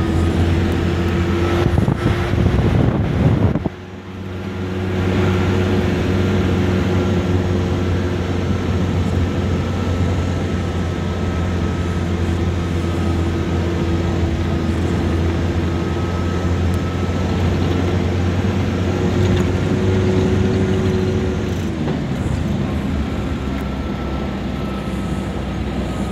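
A vehicle's engine running steadily while driving along a soft sand track, heard from inside the cabin. About four seconds in the sound drops sharply and then builds back up, and near the end the engine note falls.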